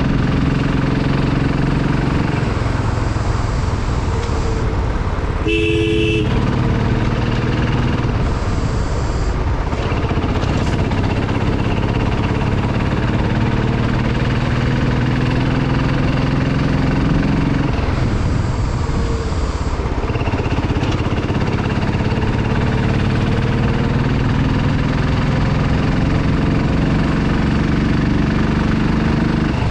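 Motorcycle engine running while riding, its pitch rising and falling with the throttle, with a brief horn toot about six seconds in.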